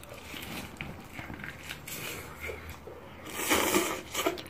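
Close-miked chewing and gnawing of grilled meat on the bone, with small wet mouth clicks and a louder stretch of crunching about three and a half seconds in.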